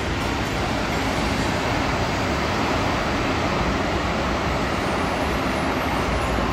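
Passenger train running past at close range, a steady, even noise of wheels on track that stays level throughout.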